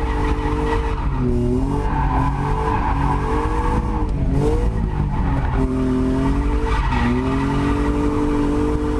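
BMW E36 Compact's swapped-in M52 2.5-litre straight-six running hard while drifting, its revs dipping and climbing again several times, with tyres squealing throughout.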